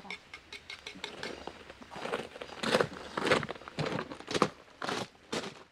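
Close-up eating noises: a series of short crunching bites and chews, coming about every half second and louder from about two seconds in.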